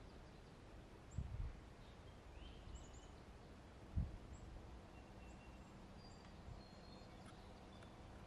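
Quiet open-country background with faint, scattered songbird chirps, and two brief low thumps, about a second in and again about four seconds in.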